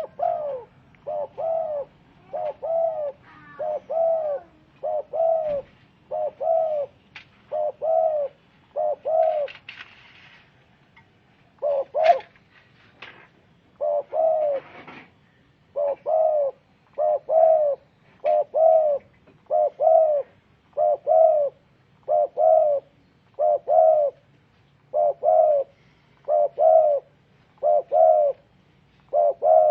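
Spotted dove cooing: a steady, rhythmic series of short coo notes, one to two a second, with a pause of a couple of seconds about ten seconds in.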